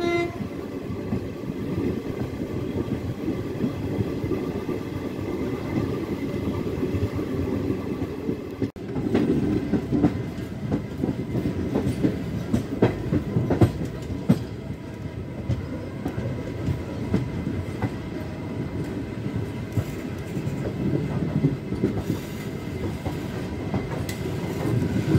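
Passenger train running along the track, heard from on board: a steady rumble from the coaches with repeated clicks of the wheels over rail joints.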